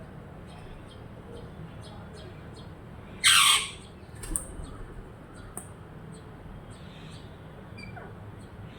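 A parrot gives one short, harsh squawk about three seconds in, with a smaller call just after and faint, scattered high chirps around it.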